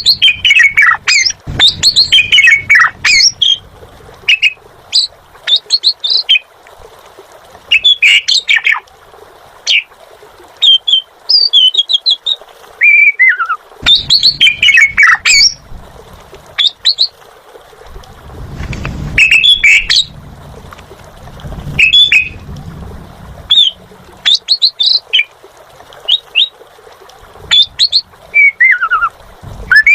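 Asian pied starling (jalak suren) singing in full voice: loud, separate bursts of rapid whistles and harsh chattering notes, many sliding up or down, repeated every second or two.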